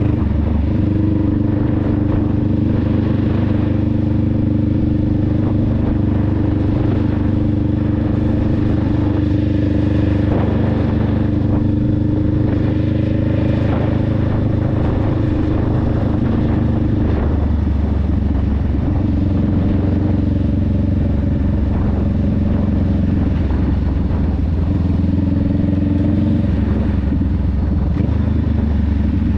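Honda Rebel 500's parallel-twin engine and exhaust running steadily under way. The note drops to a lower pitch about halfway through and holds there.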